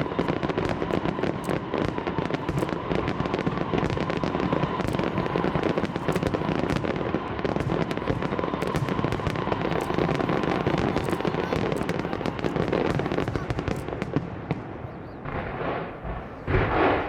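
Fireworks display: a dense, continuous crackle of many shells bursting at once. It thins out about fourteen seconds in, with a few last bursts near the end.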